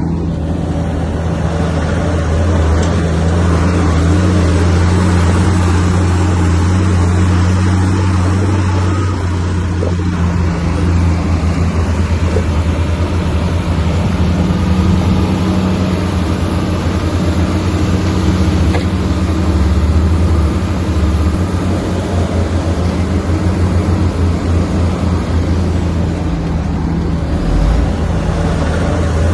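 Komatsu bulldozer's diesel engine running steadily with a deep, continuous drone.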